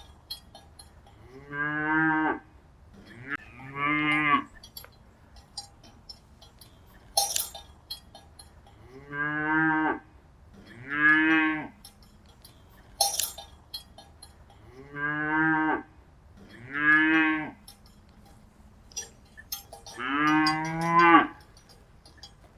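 Cattle mooing: seven drawn-out moos of about a second each, coming mostly in pairs. Sharp bell-like clanks fall between the pairs.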